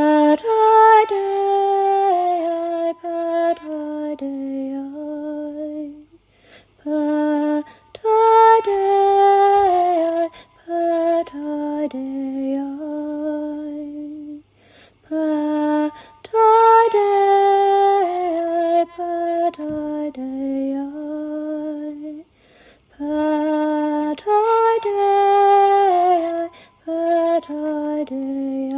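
A woman singing a slow, unaccompanied, chant-like melody in phrases of several seconds each, with short pauses between. The same phrase shape comes back about every eight seconds.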